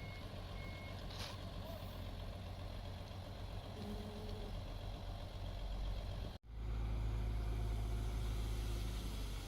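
Heavy diesel earth-moving machinery running with a steady low rumble, with two short high beeps near the start and a brief metallic clank about a second in. The sound drops out for an instant about six and a half seconds in, then returns with a louder, deeper engine rumble.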